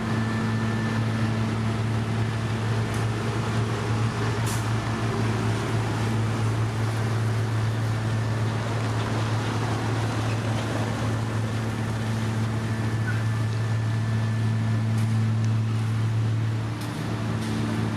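Diesel engine of heavy road-construction machinery running steadily at constant speed, a steady low hum with a few faint clicks.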